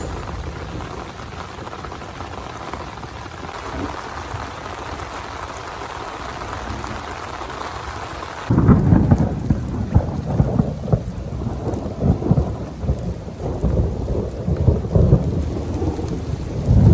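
Heavy rain in a thunderstorm: a steady hiss of rain, which about halfway through turns abruptly into a louder, lower drumming of close drops over a rumble of thunder.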